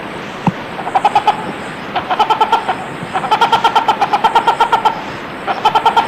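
Sumba hornbill calling: rapid runs of hard, evenly spaced "kok-kok-kok" notes, four runs of which the middle one lasts nearly two seconds.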